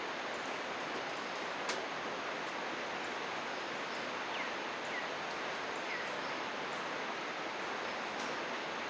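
Steady rush of a babbling river, with a few short bird chirps over it: one sharp chirp near two seconds in and three brief downward-sliding chirps between about four and six seconds.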